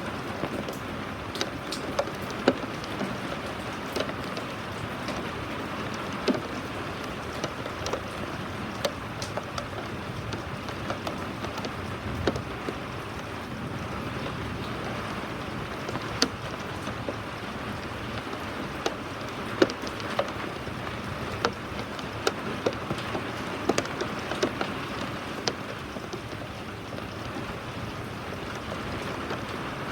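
Steady rain falling, a continuous hiss with frequent irregular sharp taps of drops striking a hard surface.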